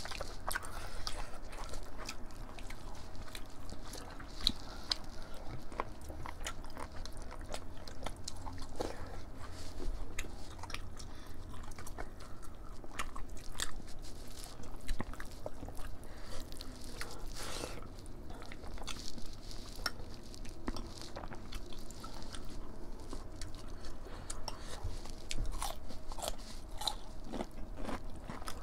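Two people eating rice and mutton curry by hand: chewing, with many small irregular clicks and crunches throughout.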